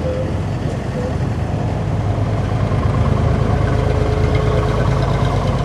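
Large vehicle engine idling with a steady low hum, growing a little louder about two seconds in.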